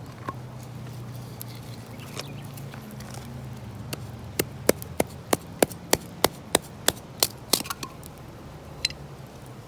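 Wood being chopped at a campfire: a run of about a dozen sharp knocks, about three a second, starting about four seconds in, then one more knock near the end.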